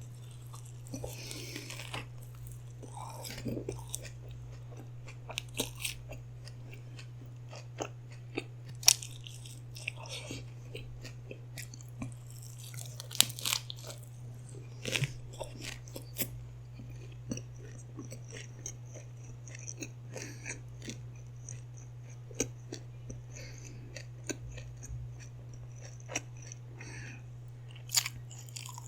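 Close-miked eating sounds: irregular chewing, bites and crunches of food, over a steady low hum.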